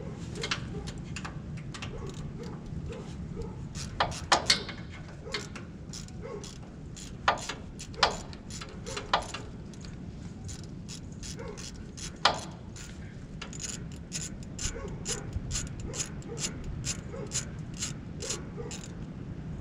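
Hand ratchet wrench working fasteners under a truck: a few sharp metal knocks and clicks, then a steady run of ratchet clicks at about two to three a second near the end.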